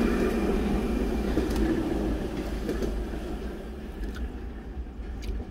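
Passenger train on the adjacent track rumbling past and fading as it draws away, heard from inside a car's cabin, with a few light clicks.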